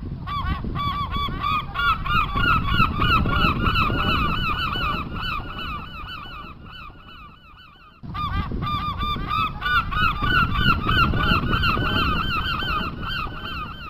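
A flock of geese honking, many short calls overlapping. The calling fades about halfway through, then starts again abruptly just as loud.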